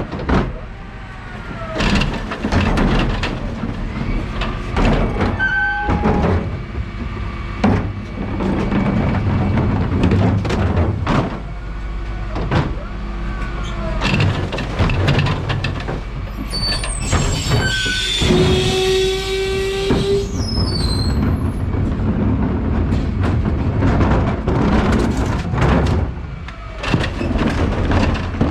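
Dennis Elite 6 refuse truck heard from its cab: a steady engine and road rumble with frequent rattles and knocks, and a brief hiss of air about two-thirds of the way through.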